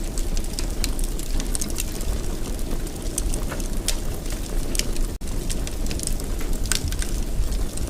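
Wood fire in a fireplace crackling, with irregular sharp pops over a steady low rumble. The sound cuts out for an instant about five seconds in.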